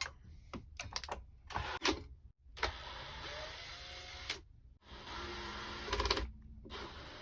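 Small electric motor running in short bursts, with clicks and rattles in between: a power screwdriver taking out the screws of a scooter's deck cover.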